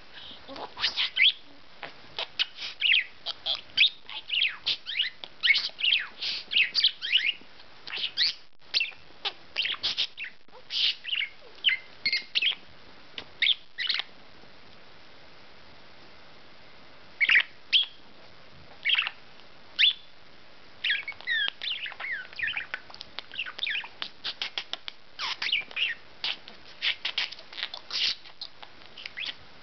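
Pet budgerigar chattering and warbling in fast runs of high chirps, with a pause of a few seconds about halfway through.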